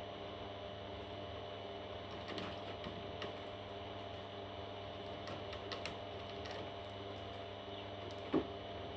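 A steady mechanical hum with faint scattered clicks and one brief low sound near the end.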